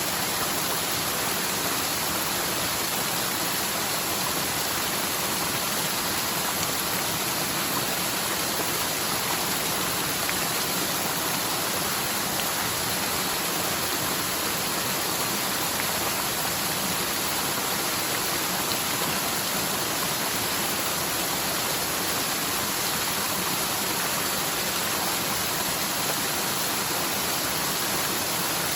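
Forest mountain stream running fast and full after heavy rain, a steady rushing of water that doesn't change.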